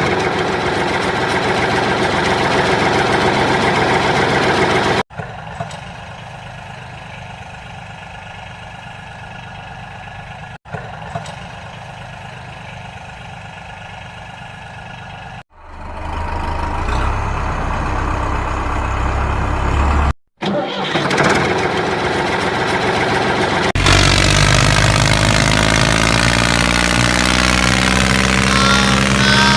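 An engine-like running sound, made of several edited segments that start and stop abruptly at hard cuts. The quieter middle segments give way to a louder, steady low throb near the end.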